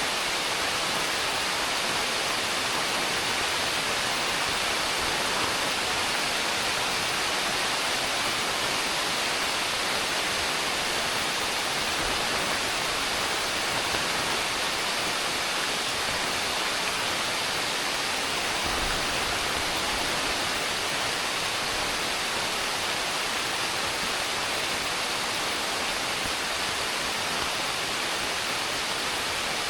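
Heavy rain falling, a dense, steady hiss with no letup.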